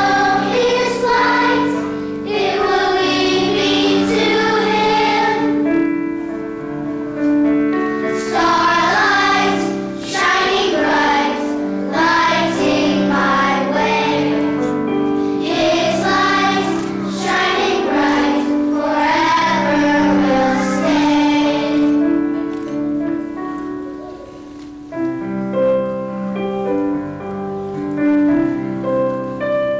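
Children's choir singing a Christmas song over an instrumental accompaniment. The voices drop away about two-thirds of the way through while the accompaniment plays on.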